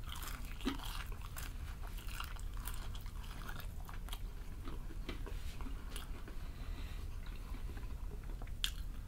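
Close-up chewing and biting of a crispy fried chicken wing: many small crackles and crunches from the coating, with wet mouth sounds.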